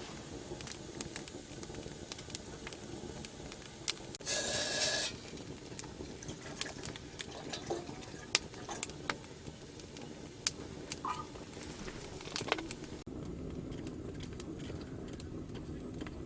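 Firewood crackling in a wood-burning stove, with irregular sharp snaps and pops throughout and a short hiss about four seconds in.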